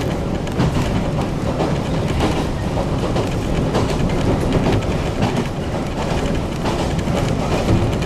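Running noise of a local electric train heard inside the passenger car: a steady low rumble of wheels on the rails at speed, with irregular clicks and clacks over the track.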